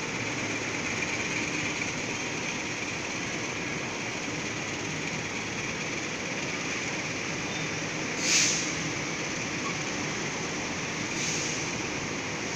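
Passenger train carriages rolling slowly past as the train pulls out, a steady running noise of wheels on rails. A short sharp noise stands out about eight seconds in, and a fainter one about three seconds later.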